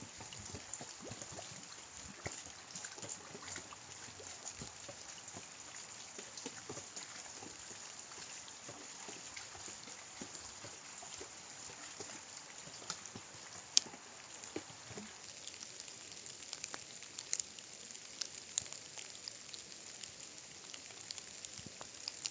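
Steady rain falling, a soft hiss with many small drop ticks scattered through it and a sharper tick now and then, the loudest about fourteen seconds in.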